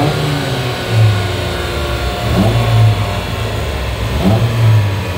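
The Nissan CGA3DE four-cylinder engine of a Classic Mini running on a rolling-road dyno during tuning. Its revs climb and fall back three times.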